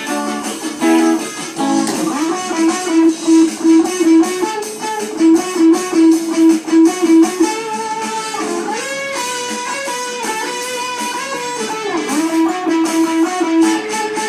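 Band music without singing, led by a plucked electric guitar line. It plays quick repeated notes, then longer held notes that bend and slide in pitch about halfway through, then returns to the repeated notes near the end.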